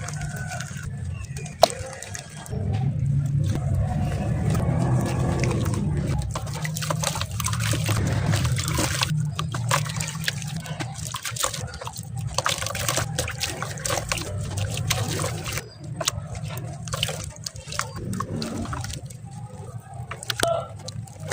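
Dry sand-cement chunks crumbling and being crushed: a dense run of small irregular crackles and gritty crunches.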